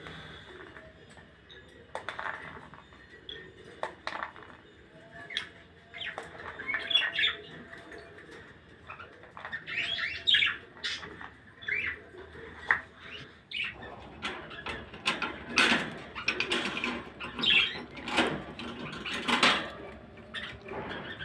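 Small pet birds chirping in many short calls, with scattered sharp clicks and rustles; the chirping gets busier and louder in the second half.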